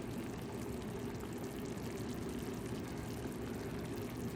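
Chicken drumsticks simmering in their own juices in a pot on the stove: a steady low bubbling.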